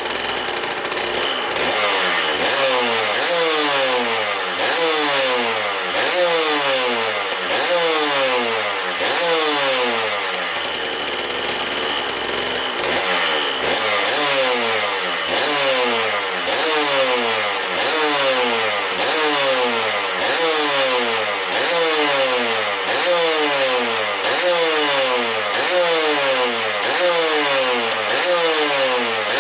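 Aprilia RS 125's Rotax 122 two-stroke single, freshly rebuilt, being warmed up with short repeated throttle blips, a bit more than one a second, the revs falling back after each. Around ten to thirteen seconds in it holds a steadier note briefly before the blips resume.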